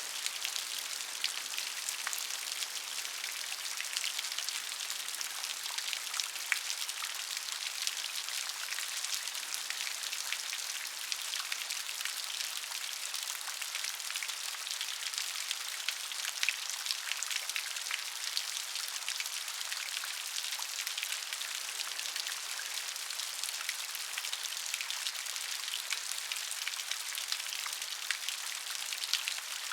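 Steady rain with many individual drops pattering on a surface, a dense hiss with fine crackling drop hits and no thunder.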